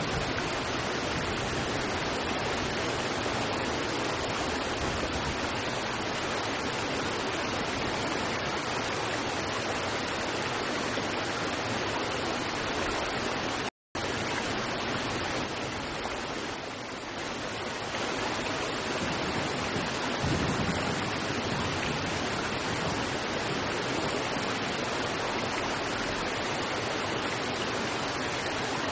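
River water rushing steadily over rocks, a dense even wash of water noise. A little before halfway it cuts out completely for a split second, then comes straight back.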